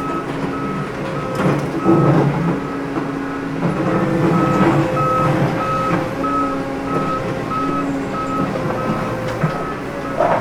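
Vehicle reversing alarm beeping at one steady pitch, about twice a second, over a steady motor hum and rumble.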